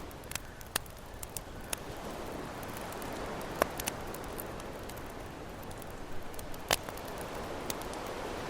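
Campfire crackling with scattered sharp pops, the loudest about three and a half and nearly seven seconds in, over a steady wash of ocean waves.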